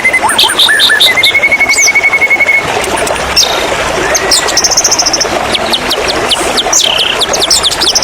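White-rumped shama singing a varied song: a rapid trill in the first couple of seconds, then sharp high whistles and quick downward notes, over a steady hiss of running water.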